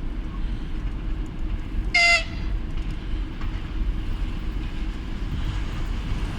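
TEP70BS diesel passenger locomotive running with a steady low engine rumble. About two seconds in it gives one short, high-pitched horn toot.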